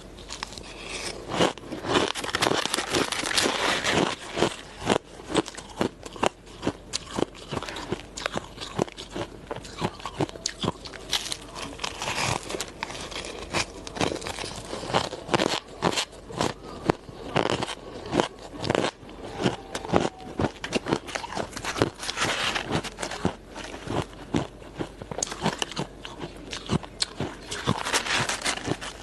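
A person biting and chewing hard ice close to the microphone: repeated sharp crunches and crackles of ice breaking between the teeth, several a second, with short denser stretches of chewing.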